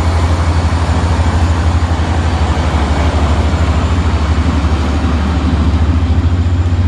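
Heavy truck engine running steadily, with a fast, even low pulsing.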